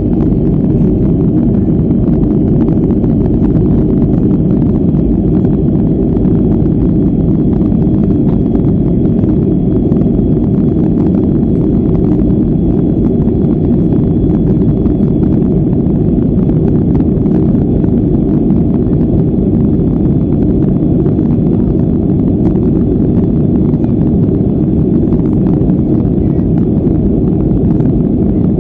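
Boeing 737-400 in the climb: the steady low roar of its CFM56 jet engines and rushing air, with a faint thin high-pitched whine above it.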